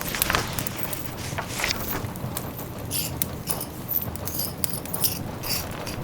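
Wood fire crackling in a fireplace with rain pattering steadily behind it. Short, light, high-pitched clinks come between about three and five and a half seconds in.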